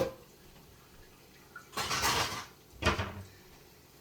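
Kitchenware being handled: a sharp click at the start, a brief rushing noise about two seconds in, then a knock of a dish or pan a second later.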